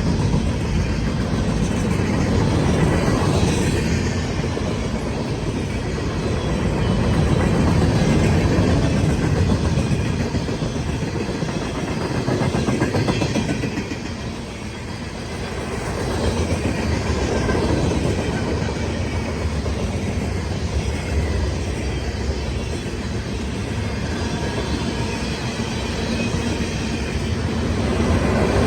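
Cars of a CSX manifest freight train rolling past with steady wheel-on-rail rumble, swelling and easing in level, with a short dip about halfway through.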